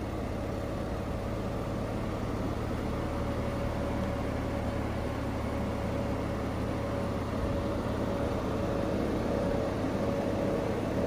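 Porsche 996 Carrera's flat-six engine idling steadily, a constant low hum with a faint steady tone above it, growing slightly louder in the second half.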